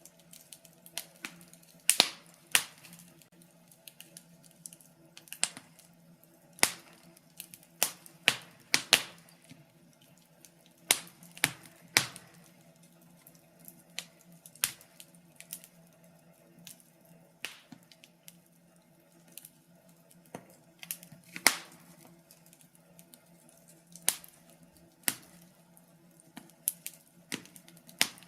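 Wood fire crackling: irregular sharp pops and snaps from burning logs, spaced unevenly, over a faint low steady hum.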